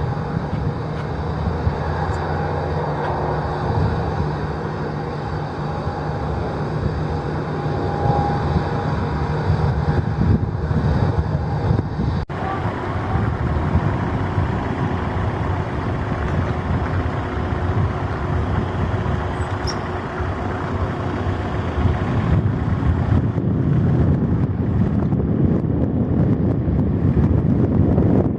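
Steady engine noise with a faint steady whine, which drops away after a brief break about twelve seconds in; a rushing rumble then builds toward the end.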